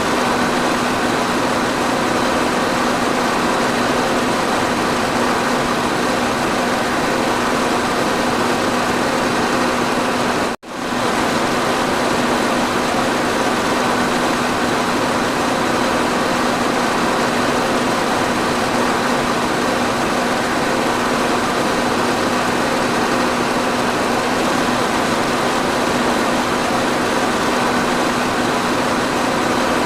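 Electric fan running steadily: an even rushing of air with a constant low hum. It cuts out for an instant about ten seconds in, then carries on as before.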